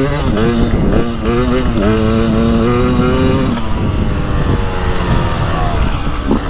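Beta 300 Race Edition two-stroke dirt bike engine revving up and shifting up through the gears, pitch rising and dropping several times in the first two seconds. It holds a steady pull, then the throttle eases off about three and a half seconds in.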